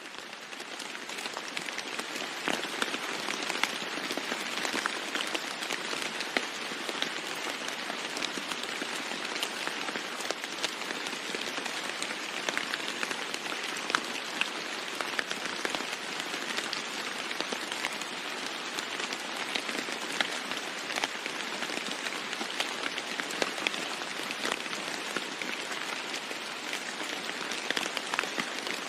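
Steady heavy rain falling on a roof: a dense hiss full of sharp individual drop ticks, fading up over the first second or two.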